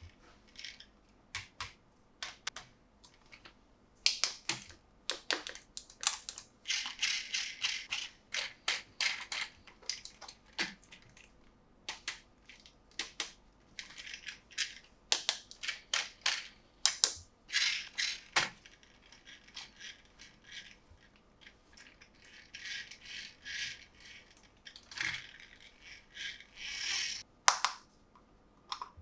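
Hands unboxing a toy, handling its packaging: crinkling plastic and cardboard with many sharp clicks and rustles in irregular bursts.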